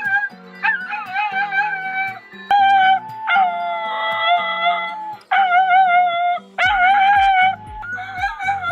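Mixed-breed rescue dog howling, about six long wavering howls one after another, over background music.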